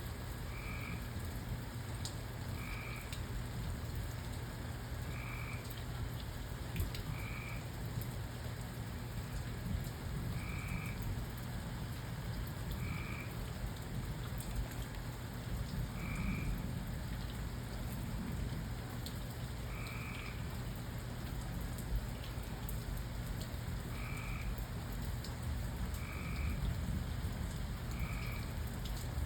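Steady rain falling, with a frog calling over it: short, even two-toned calls repeated every two to four seconds.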